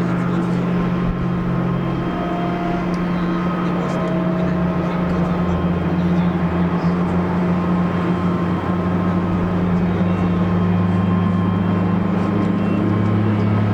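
Jet airliner engines, a steady drone with low tones that shift in pitch about a third of the way through, slowly growing louder.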